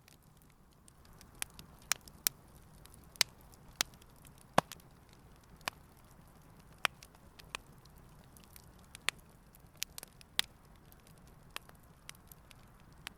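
Wood campfire burning, crackling with sharp, irregular pops, a few much louder than the rest, over a faint steady background.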